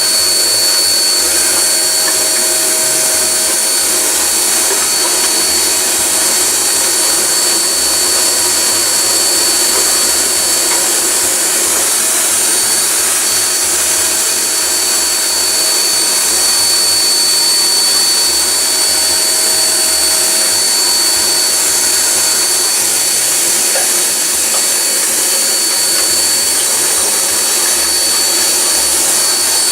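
Vacuum cleaner running steadily with a constant high whine, sucking up rubber shavings drilled out of the metallophone's pin holes.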